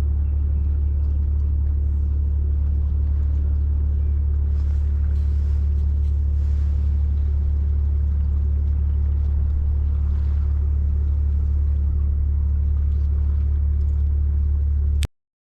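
A steady low engine rumble running evenly, which cuts off abruptly near the end.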